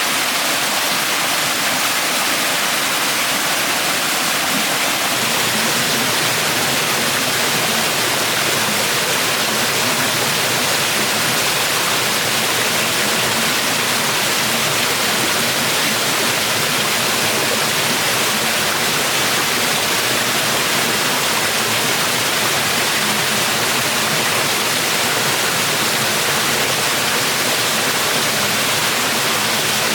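Rushing water: a steady, unbroken hiss.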